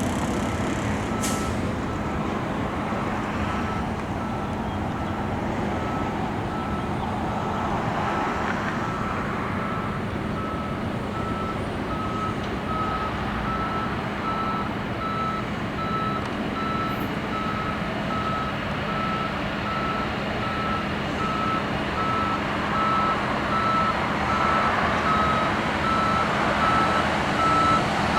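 Steady rumble of a passing train, with an electronic beep repeating at an even pace throughout.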